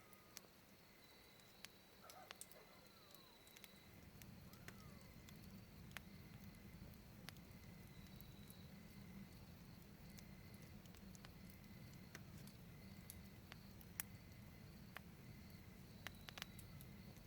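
Faint wood fire crackling, with scattered sharp pops; a low steady rumble comes in about four seconds in.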